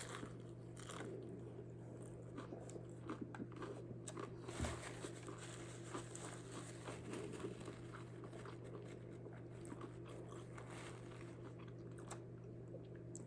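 Faint crunching and chewing of a bite of a hard-shell taco, the crisp fried shell cracking between the teeth.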